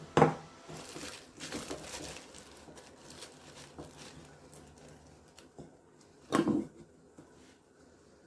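Things being handled: a sharp knock, a crinkling rustle lasting a couple of seconds, then another knock about six seconds in.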